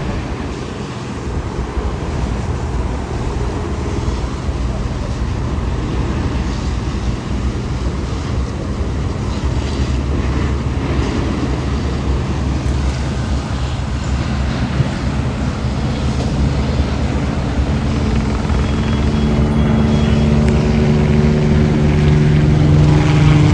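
Steady engine rumble that slowly grows louder, with a droning engine tone coming in about eighteen seconds in and building toward the end, as of an aircraft or heavy vehicle drawing near.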